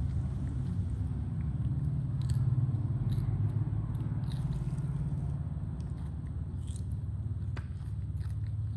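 Monkeys chewing raw vegetables, with scattered crisp crunching bites over a steady low hum.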